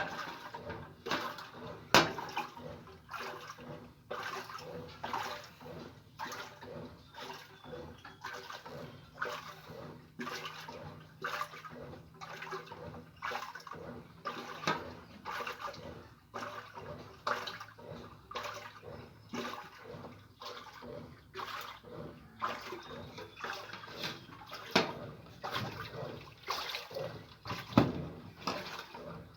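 Water sloshing and splashing inside an Easy washing machine, in uneven surges one after another.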